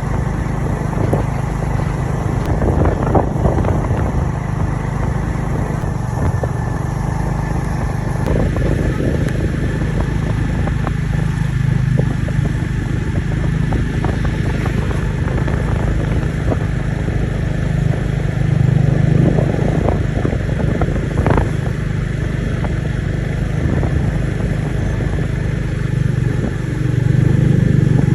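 A motor vehicle's engine running steadily with a low drone, getting louder near the end.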